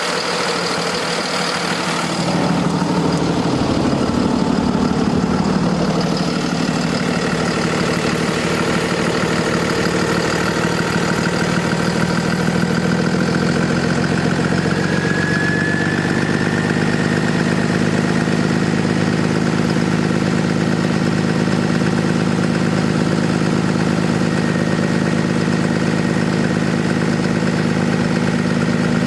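Cummins ISB six-cylinder diesel engine of a Freightliner M2 truck running at idle, a steady low engine note. About two seconds in it gets louder and its pitch shifts for a few seconds before settling back to an even idle.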